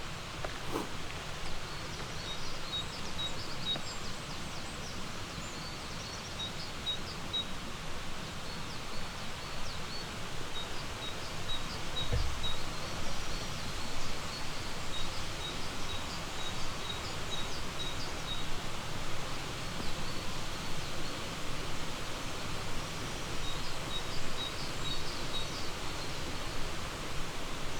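Steady rush of flowing river water, with a small bird repeating a thin high note in short runs of four or five, and other birds chirping faintly. A dull low thump about twelve seconds in.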